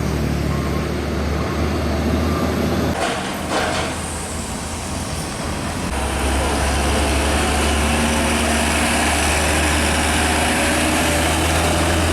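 Heavy truck diesel engines running, with a short burst of hiss about three seconds in, then a steadier, louder engine drone from about halfway.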